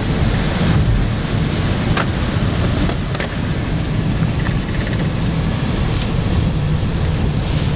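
Steady rumble of a car driving through a storm, with rain and wind noise, and a couple of sharp ticks about two and three seconds in.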